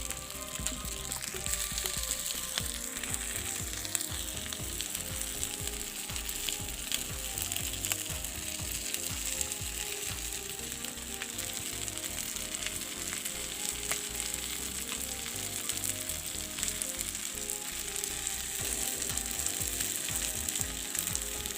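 Chicken leg pieces frying in a little oil on a hot tawa, with a steady sizzle and frequent small crackles.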